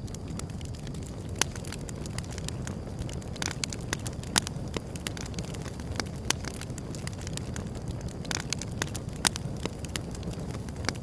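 Wood fire burning: a steady low rumble of flames under irregular sharp crackles and pops, with a few louder snaps spread through.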